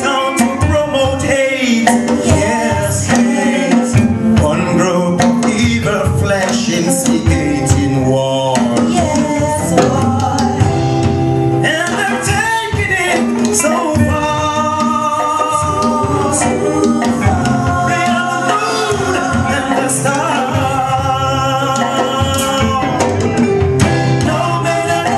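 A male singer performing over backing music with drums and bass.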